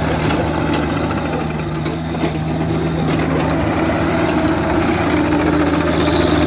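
Excavator engine running steadily as the machine grades the dirt, with a few short clanks.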